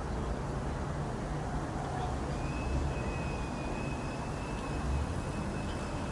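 Distant jet aircraft: a steady low rumble with a faint high whine coming in about two seconds in.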